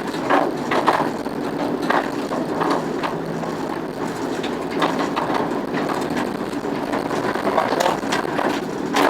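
Class 08 diesel shunter's six-cylinder English Electric engine running steadily while the loco moves along the track, with irregular knocks and rattles throughout.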